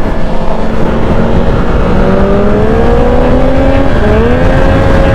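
Motorcycle engine running at speed under heavy wind noise on a helmet-mounted microphone. The engine note climbs slowly, then changes pitch about four seconds in, like a gear change.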